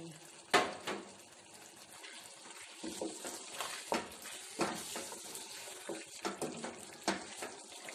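Chicken karahi sizzling in a metal wok as a spoon stirs it, with a steady hiss and repeated irregular scrapes and clinks of the spoon against the pan.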